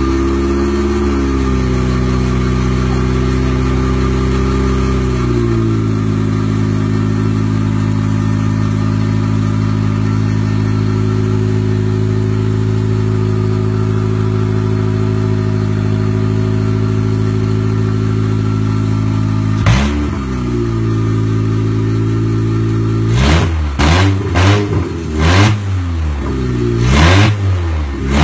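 Honda K24 2.4-litre inline-four engine run up before installation: idling, its idle speed dropping and settling a few seconds in, then holding steady. A single quick throttle blip comes about two-thirds of the way through, and near the end a series of about five sharp revs.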